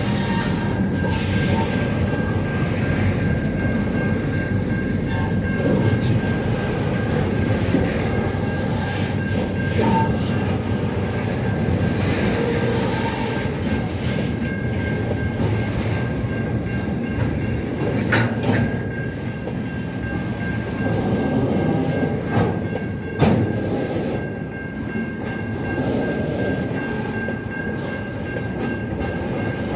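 Train running on the rails: a steady rumble with scattered clacks and a steady high whine, and two sharper knocks, one past the middle and one a few seconds later.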